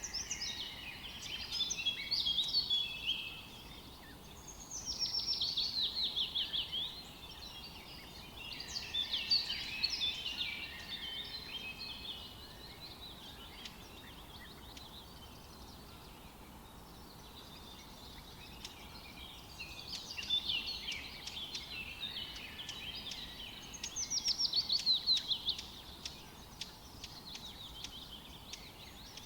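Songbirds chirping and singing in bursts of song a few seconds apart, some phrases fast trills of quick repeated notes, over a faint steady background hiss.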